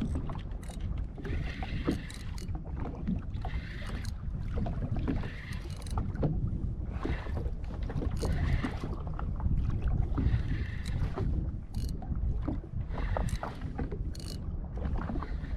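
Wind rumbling on the microphone and water slapping against the hull of a small boat, with a splashy hiss every second or two.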